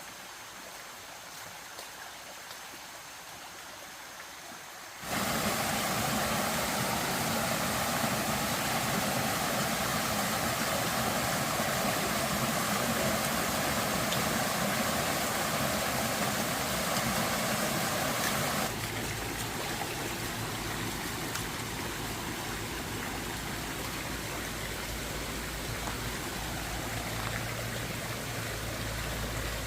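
Steady rushing of a stream's flowing water. Quieter at first, it jumps abruptly louder about five seconds in and drops back a step near the two-thirds mark.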